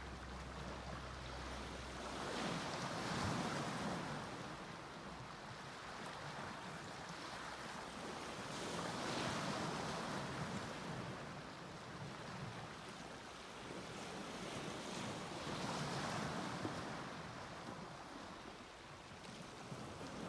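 Sea waves breaking and washing up on a beach, the surf swelling and fading in slow surges about every six or seven seconds.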